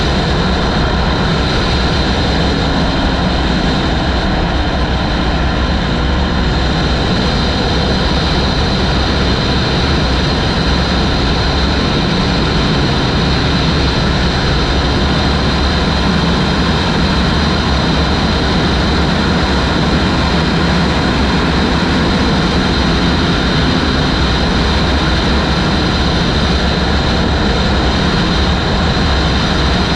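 Loud, steady wind noise rushing over the microphone of a motorcycle at speed, with the engine running underneath.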